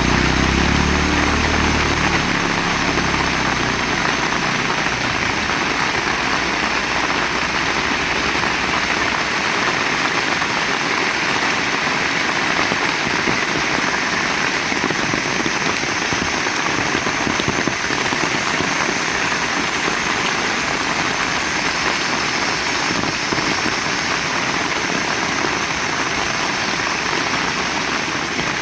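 Heavy rain falling steadily as a dense, even hiss. A low rumble runs under it for the first several seconds and fades away.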